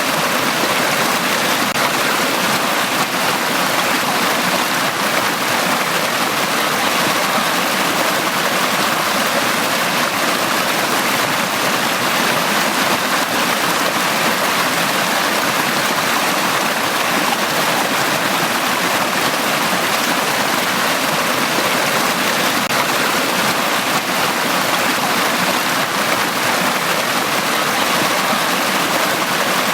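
Valley stream flowing: a steady, even rush of water with no pauses or separate splashes.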